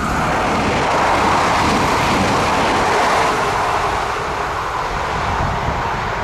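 Alstom Régiolis regional train running past on the rails and pulling away, its wheel and running noise swelling at the start and loudest in the first few seconds, then slowly fading as it recedes.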